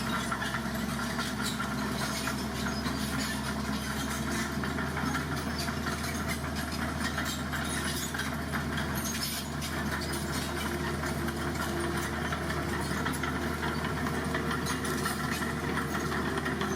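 Heavy diesel engine of construction machinery running steadily at a low, even speed with a constant hum.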